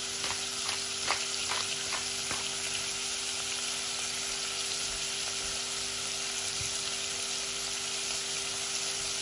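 Minced meat, onion, garlic and small tomatoes sizzling steadily in a pot. In the first two seconds or so there is a quick run of clicks from a pepper grinder turned over the pan.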